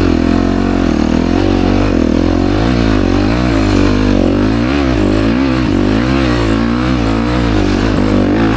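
Yamaha YZ250F four-stroke single-cylinder dirt bike engine running loud, its revs rising and falling over and over as the throttle is worked on and off on a steep climb.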